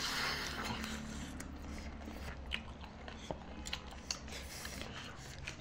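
Quiet eating sounds, chewing and munching on biryani, with scattered small clicks and crunches.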